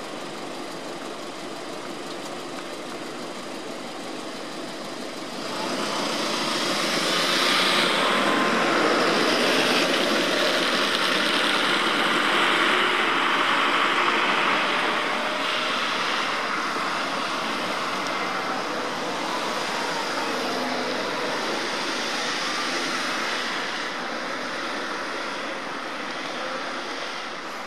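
Steady background traffic noise that swells about five seconds in as a vehicle passes, then slowly fades over the following twenty seconds.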